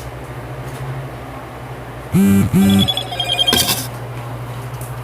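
A phone's alert tone: two short, loud low-pitched tones about two seconds in, then a brief run of higher beeps, over a steady low hum.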